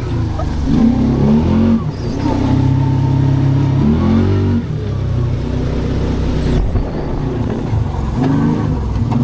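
Kawasaki Teryx 4 side-by-side's V-twin engine running under throttle, revving up and easing off three times: about half a second in, around four seconds in, and near the end.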